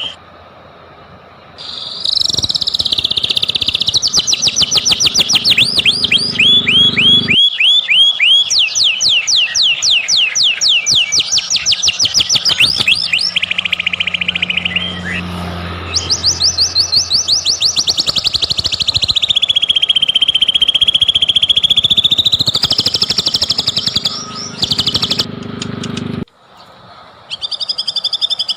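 White-rumped shama (murai batu) singing loudly in long runs of rapid repeated chirping notes, with a long whistled phrase in the middle that dips and rises in pitch. There are short breaks just after the start and near the end.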